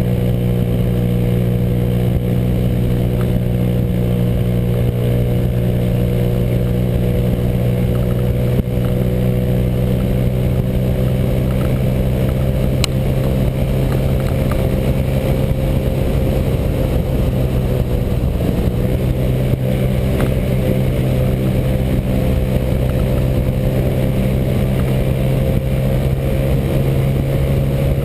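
Honda PCX scooter's single-cylinder engine with a J.Costa variator, running at a steady, high speed. The pitch sags briefly about two-thirds of the way through, then climbs back.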